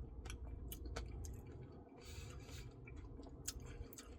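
Close-miked eating of a Dairy Queen Blizzard: quiet chewing with scattered wet mouth clicks and smacks.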